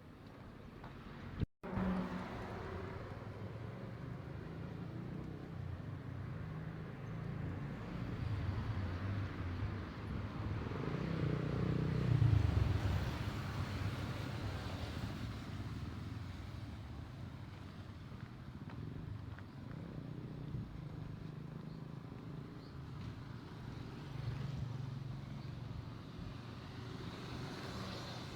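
Road traffic: motor vehicle engines running and passing, one passing loudest about twelve seconds in.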